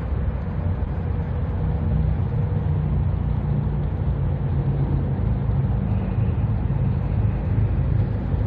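Steady low engine rumble, with a faint higher tone joining about six seconds in.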